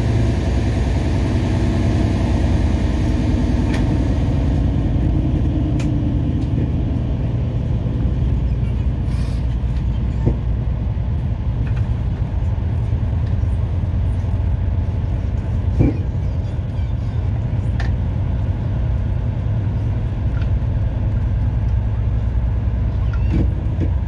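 Running noise heard from inside a moving PKP Intercity passenger train: a steady low rumble of wheels on track and carriage. A hum fades out in the first few seconds, and a few scattered clicks and knocks come through the rumble.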